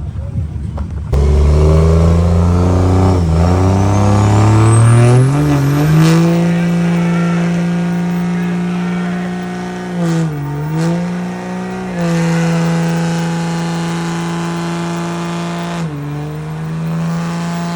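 Truck engine revved hard for a four-wheel-drive burnout: the engine note climbs over the first few seconds, then holds steady at high revs, dipping briefly twice.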